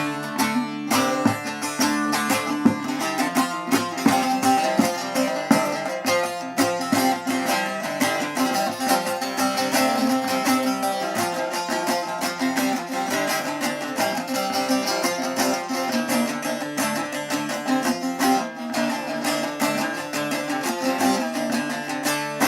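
Instrumental interlude of a Turkish folk song: a plucked string instrument playing a quick, busily picked melody over a steady bass, with no singing.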